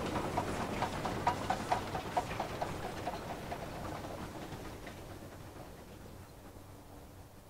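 A train's wheels clicking over the rail joints as it runs away into the distance, a quick run of clicks over a low rumble, the whole sound fading steadily and the clicks dying out about four seconds in.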